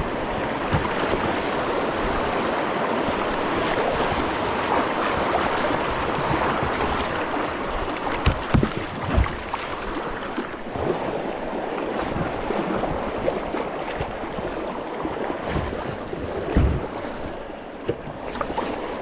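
Rushing river rapids around a kayak, a steady wash of moving water, with a few dull low thumps partway through and near the end.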